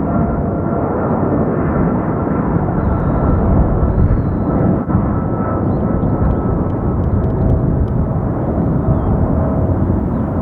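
Boeing 777 twin-engine jet airliner's engines running loud and steady: a heavy, even rumble with a faint steady whine over it.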